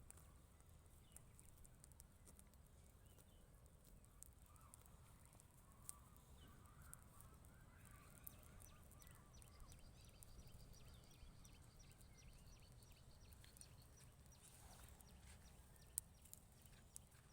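Near silence, with faint distant bird calls and a few soft clicks.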